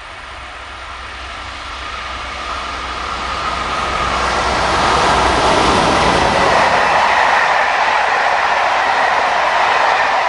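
Locomotive-hauled passenger train of Corail coaches approaching and passing at speed: the wheel-on-rail noise swells steadily over the first five seconds, then holds loud and even as the coaches go by.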